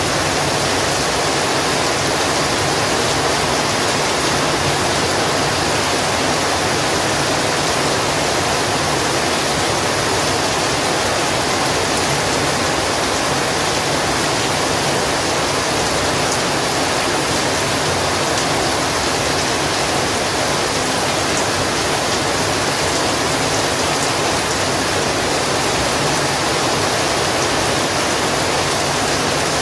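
Heavy rain falling in a steady, dense hiss, with no let-up or single drops standing out.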